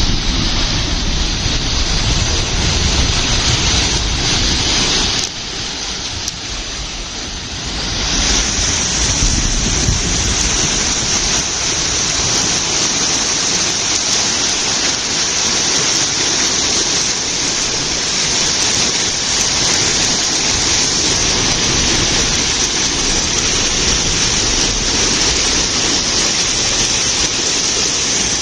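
Whirlpool sucking water down a deep hole: a steady, thunderous rushing of water. It dips briefly about five seconds in and swells again around eight seconds.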